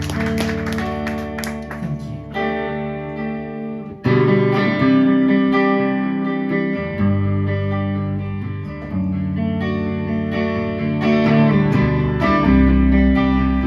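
Live guitar-led music: the instrumental intro of a song, with sustained strummed chords. A loud new chord comes in about four seconds in.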